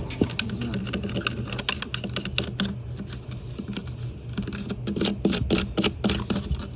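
Rapid, irregular clicks and taps of hand tools and small hardware being handled while fastening a trolling motor's mount and wiring, the clicking growing denser near the end.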